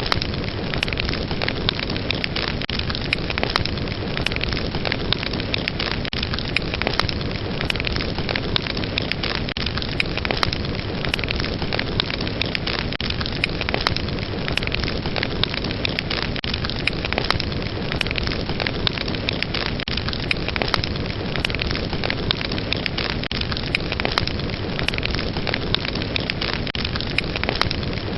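Fireplace fire burning, a steady hiss of flames with dense, continual crackles and pops.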